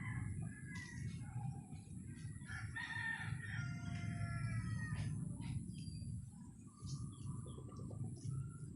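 A rooster crowing, one long call with strongest part about three seconds in, over a steady low rumble.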